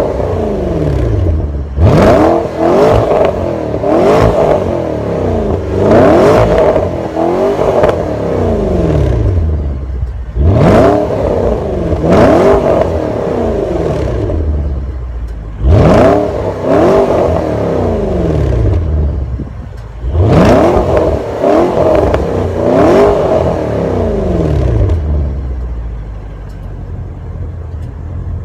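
2016 Porsche Panamera Turbo's 4.8-liter twin-turbo V8 revved while standing, in a series of quick throttle blips, each rising sharply in pitch and falling back, several in quick succession. It settles to a steady idle near the end.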